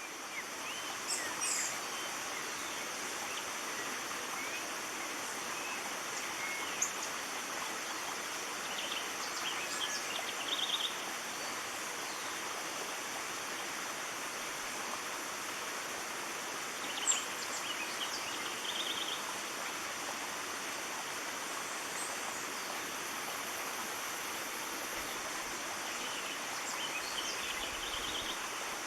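Steady rush of a forest stream, with birds calling over it: a short series of quick high notes recurs about every eight to nine seconds.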